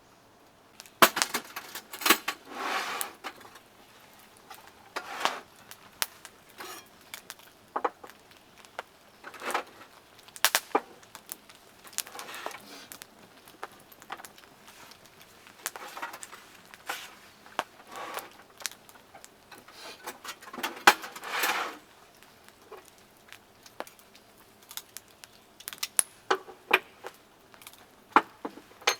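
Camp cookware and utensils being handled: scattered clinks and knocks, with a couple of short scrapes or rustles.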